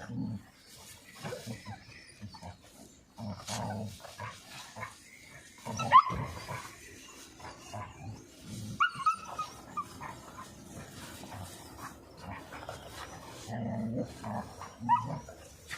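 Dogs playing: repeated bursts of low play-growling, with one loud, sharp cry about six seconds in and high squeaky yips and whines later.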